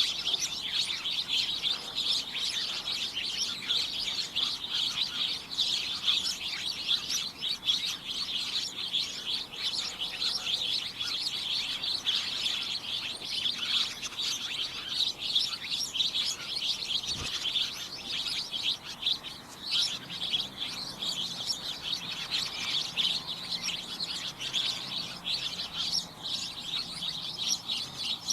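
A flock of small birds chirping and tweeting all at once, a dense, unbroken chatter of overlapping high chirps.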